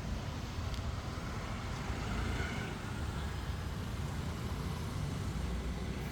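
Steady low rumble with a fainter even hiss over it, holding a constant level with no distinct sudden event.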